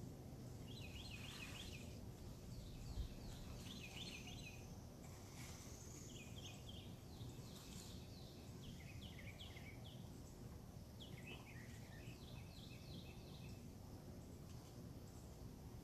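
Faint birdsong: short quick runs of high notes repeated every second or two, over a steady low background rumble.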